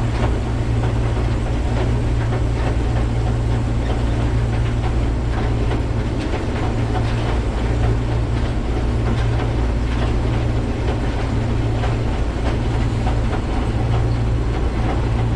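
Case 2144 combine running steadily, a loud, even low hum with a mechanical rattle over it.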